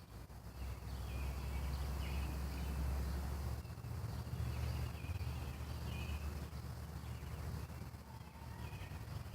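A bird chirping faintly: a few short, high calls scattered through, over a steady low rumble.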